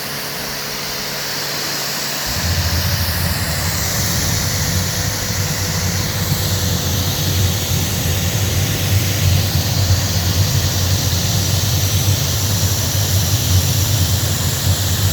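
Compact diesel-fired hot-water pressure washer running and spraying through its lance: a steady high-pressure hiss over the pump motor, joined about two seconds in by a deep, steady rumble as the heating coil's diesel burner lights in hot water mode.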